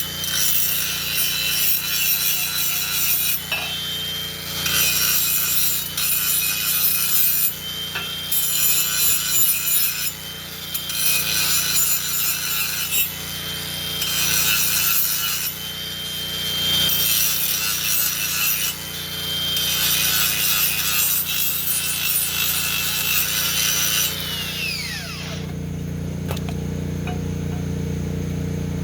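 Angle grinder smoothing the cut ends of metal pipe in repeated grinding passes, one every second or two, then switched off about 24 seconds in and spinning down with a falling whine.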